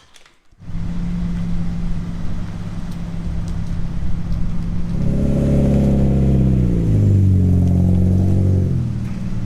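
Mazda Miata's four-cylinder engine idling, revved once from about five seconds in for a few seconds, then settling back to idle.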